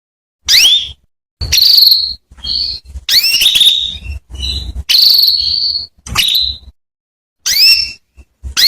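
Female canary calling: a string of short, high call notes, most of them quick upward sweeps, with a few longer held notes among them, separated by brief pauses.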